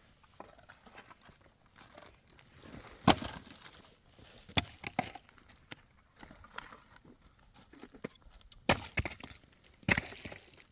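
A few sharp knocks and cracks at irregular intervals, loudest about three seconds in and twice near the end, with lighter ticks and taps in between.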